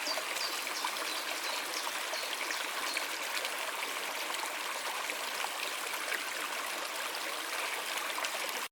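A stream running steadily, a continuous rush of flowing water, with a few short high chirps in the first half second. It cuts off suddenly at the very end.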